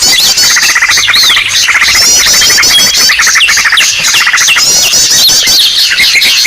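Loud, dense chorus of many small birds' calls layered over one another: rapid chattering trills, repeated sweeping chirps and short falling whistles. It is a bird-lure (pikat) recording, played to draw birds in.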